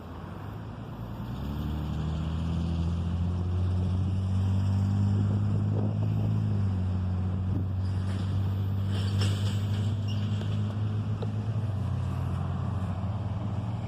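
Diesel locomotive engine running with a deep, steady pitched drone that swells up about a second and a half in and shifts slightly in pitch midway, over a background of rolling noise.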